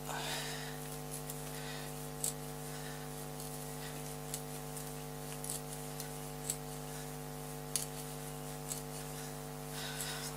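Hand tap cutting thread in a steel tee nut, giving irregular sharp clicks about once a second as the tap wrench is turned and chips break. A steady electrical hum runs underneath.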